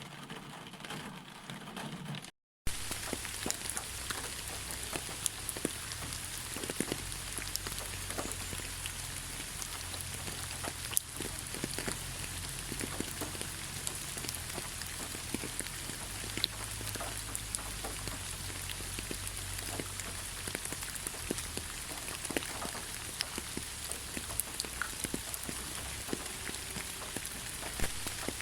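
Steady rain, with many separate drops striking close by over an even hiss. It cuts in after a brief dropout about two seconds in, replacing a quieter, different sound.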